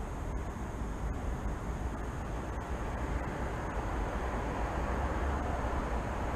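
Steady low rumble of city traffic, with no distinct events, swelling slightly in the second half.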